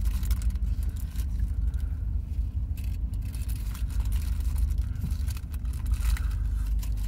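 A car engine idling, a steady low rumble heard from inside the cabin, with faint crinkling of a paper sandwich wrapper.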